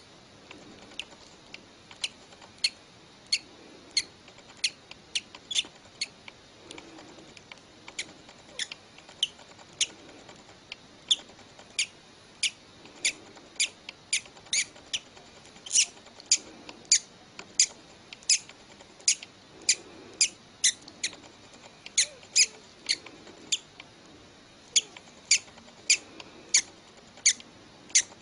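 Hatching chick peeping: short, high-pitched peeps repeated about twice a second, somewhat irregularly.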